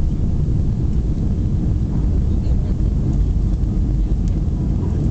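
Airbus A320 taking off: a steady, loud low rumble of engines and airflow.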